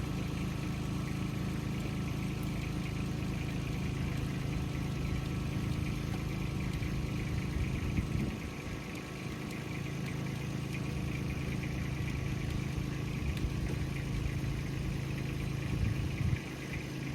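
An engine running steadily, close to idle.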